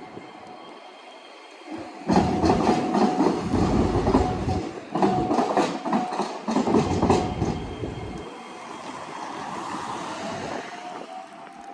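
Iyotetsu rail vehicle's wheels clattering over a diamond crossing where two rail lines cross at grade: a run of loud, irregular clacks starts about two seconds in and lasts about six seconds. After that the sound eases to a steady rumble with a faint rising whine near the end.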